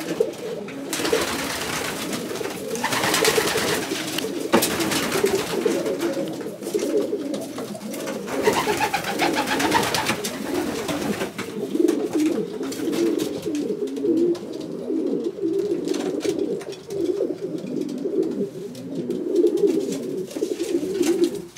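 Many racing pigeons cooing together in a loft, a continuous overlapping chorus of low coos. A broad rustling noise sits over it through roughly the first half.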